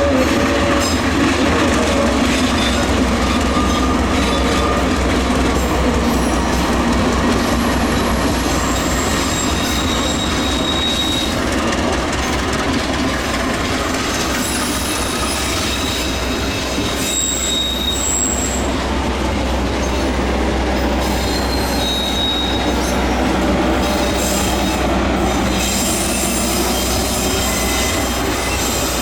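Passenger train passing close by: a steady rumble of wheels on the rails, with brief high-pitched wheel squeals several times.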